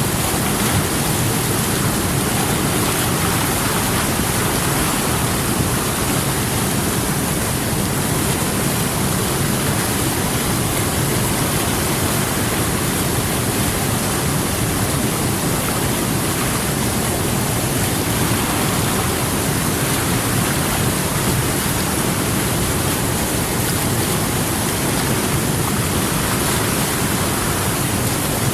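Steady rush of flowing water, an even noise that holds the same level throughout.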